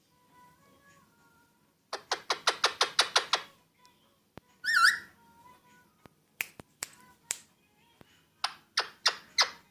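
Alexandrine parakeet making a rapid run of sharp clicking calls, a short warbling whistle, then another run of sharp clicks near the end.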